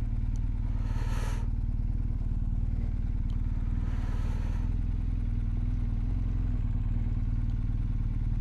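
BMW R1250GS Adventure's boxer-twin engine running steadily at low revs, with two short hissing noises about one and four seconds in.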